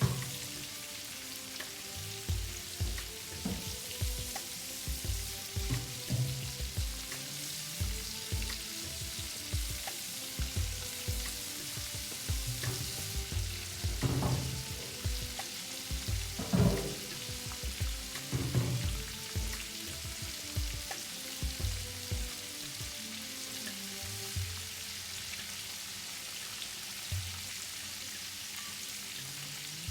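Food sizzling as it fries in a pan: a steady hiss, with repeated soft low knocks and a few louder ones past the middle.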